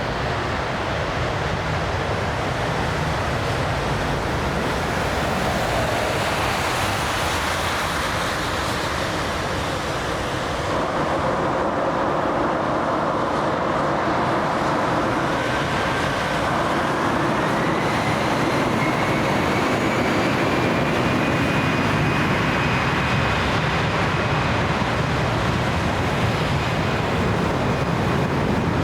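Jet airliner engines running, a steady loud rush with a thin whine that rises in pitch about halfway through and then holds, growing a little louder.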